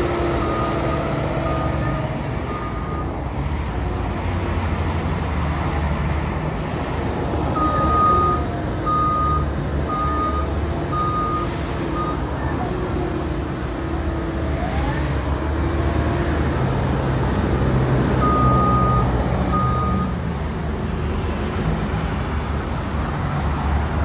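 Caterpillar 910H wheel loader's engine running under load, with the pitch rising and falling. Its reversing alarm sounds in three runs of steady beeps, about one a second: the loader backing up.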